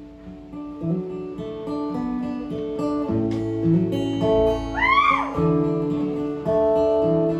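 Instrumental break in a live country song: acoustic guitar strumming chords with other instruments. About five seconds in, a brief gliding note rises and falls over the top.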